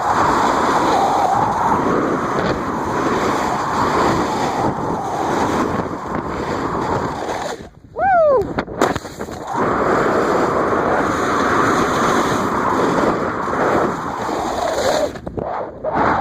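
Steady rushing noise of a snowboard run, with wind on the microphone and the board sliding over snow. The noise cuts out abruptly about eight seconds in, where a short falling squeal sounds, and again near the end.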